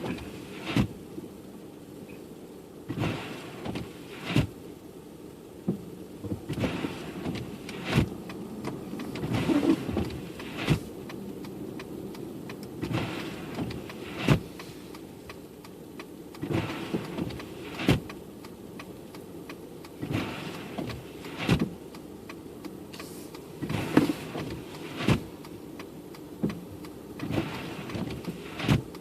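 Windshield wipers sweeping back and forth, their motor whirring with each stroke, in a steady rhythm of paired strokes with short pauses between. Under them is the steady hum of the car's engine and tyres, heard from inside the cabin.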